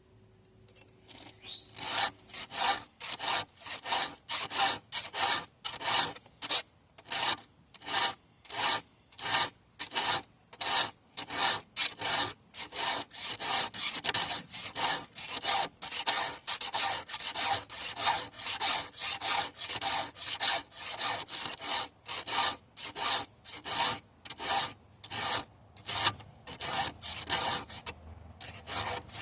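Hand file rasping across the teeth of a chainsaw chain, in even strokes about two a second, starting about two seconds in.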